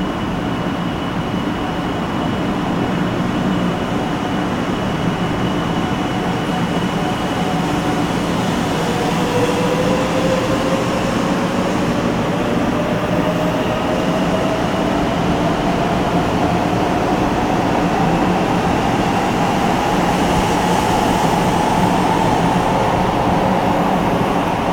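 500 series Shinkansen pulling out of the station: a steady rumble with an electric motor whine that rises slowly and evenly in pitch as the train gathers speed.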